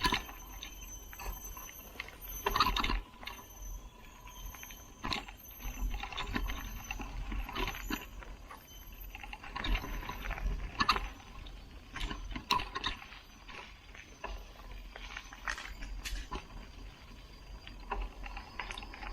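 Mountain bike clattering over a rough dirt trail: irregular knocks and rattles as the bike jolts over bumps, with a jangle of loose parts.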